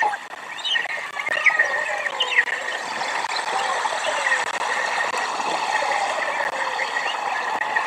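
Outdoor birds calling: many short chirps and whistled glides overlapping, over a steady hiss.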